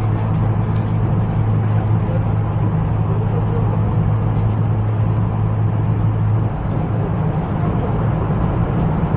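Ride noise of a 253 series electric express train at about 108 km/h, heard inside the carriage: a continuous rumble of wheels on rail with a steady low hum that drops away about six and a half seconds in.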